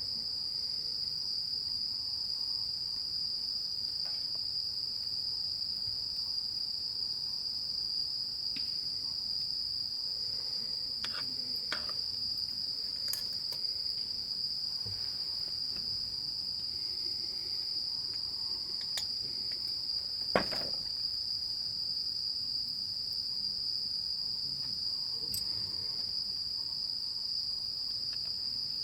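Crickets chirring in a steady, high continuous chorus, with a few faint clicks and one sharper knock about twenty seconds in.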